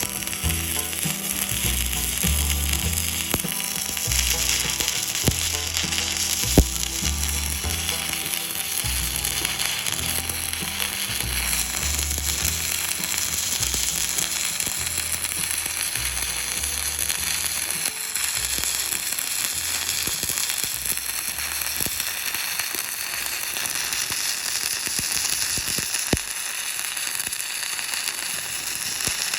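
Stick-welding arc crackling and sizzling steadily as a bead is laid on steel, with background music underneath and a sharp pop about six seconds in.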